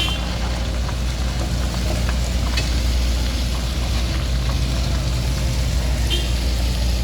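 A heavy vehicle's engine running steadily close by, a continuous low hum, with two short faint high tones, one at the start and one about six seconds in.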